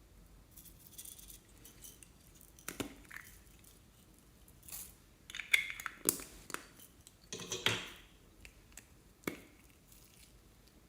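Slime and its plastic containers being handled by hand: a run of irregular short clicks, crinkles and squishes, thickest in the middle of the stretch.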